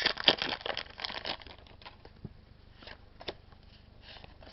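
Foil wrapper of a Pokémon booster pack crinkling and tearing as it is opened, dense for about the first second and a half. After that it goes quieter, with a few faint clicks.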